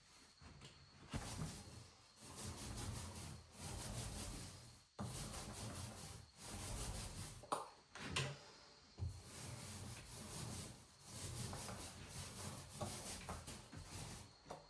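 Repeated rubbing strokes of a hand tool against a surface, in runs of one to two seconds with short breaks between them and a couple of light knocks partway through.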